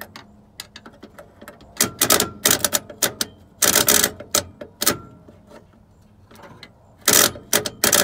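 Starter of a '65 Chevy C10, jumped directly with jumper cables, giving three short bursts of rapid clicking and crackling. It tries to engage the flywheel but does not turn the engine over, which is suspected to be locked up.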